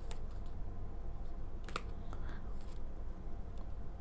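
A few light, sharp clicks and taps of tarot cards being handled and laid down, the clearest a little under halfway through, over a low steady hum.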